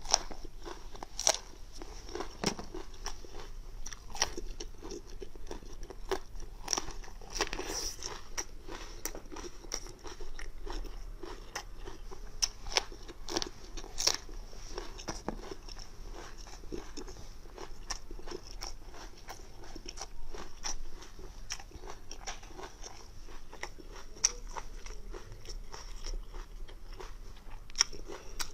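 A person eating close to the microphone: biting and chewing, with many sharp crunches.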